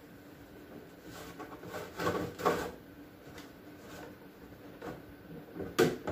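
Soft knocks and rubbing from containers being handled, with a few louder knocks about two seconds in and a sharp one near the end.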